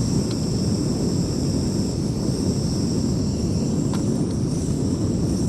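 Firemaple Saturn X gas canister stove burner running at a steady, even low rumbling hiss while heating a mug of water for tea.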